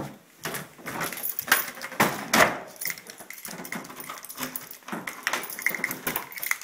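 Footsteps, knocks and handling clatter from a person walking out through a door, with a few louder knocks among them.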